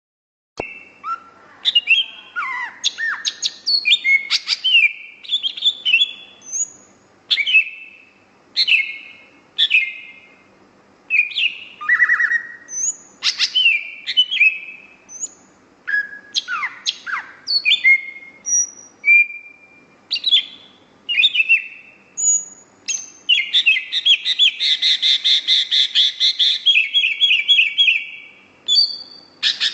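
Cucak ijo (green leafbird) singing vigorously: a string of short, clear whistled notes and swooping calls, then a fast trill lasting about five seconds near the end.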